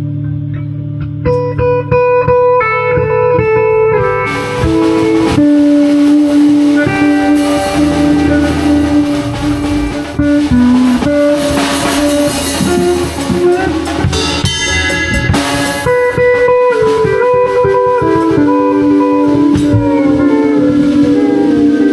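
Live improvised band music from a jam session: a line of single pitched notes comes in about a second in, and percussion hits join near four seconds in, with the full band playing steadily after that.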